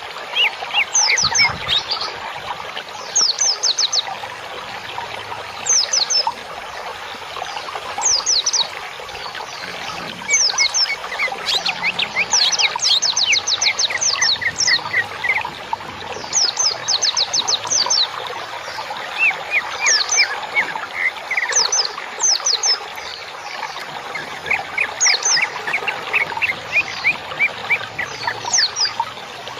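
Songbirds singing: bursts of rapid, high, steeply falling chirps every second or two, with some lower trilled notes between them, over a steady background hiss.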